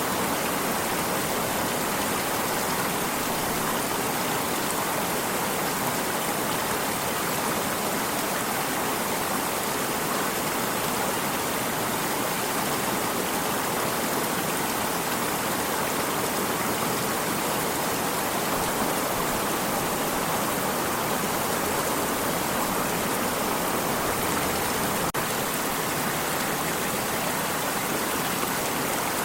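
Flowing water of a stream, running with a steady, even rush.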